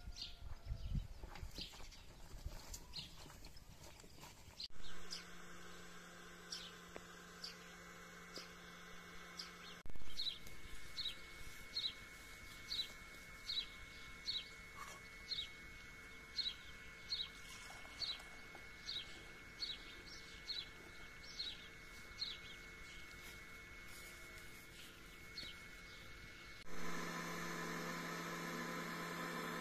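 A small bird chirping over and over, short high chirps about two a second. An electric cream separator's motor hums steadily for a few seconds from about five seconds in, and again near the end.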